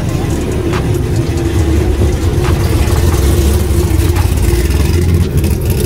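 A car engine running close by: a loud, steady low drone that builds a little over the first couple of seconds and then holds.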